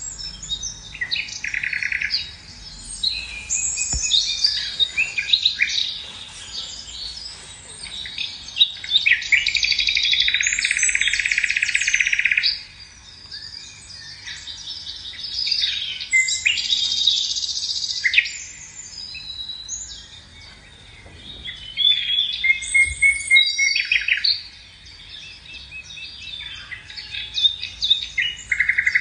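Several birds singing at once: overlapping chirps, whistles and fast trills, with long loud trilling passages around ten seconds in and again a little past twenty seconds.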